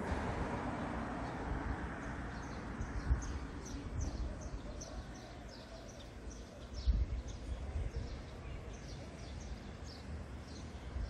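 Low rumble of a passenger train coasting slowly into a station, fading over the first few seconds. Over it, a bird calls in a long run of short high chirps, a little more than two a second, and there are a few low thumps.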